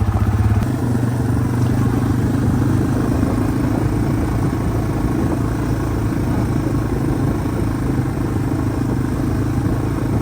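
Yamaha TW200's single-cylinder four-stroke engine running as the bike is ridden. The engine note changes about half a second in, then holds steady.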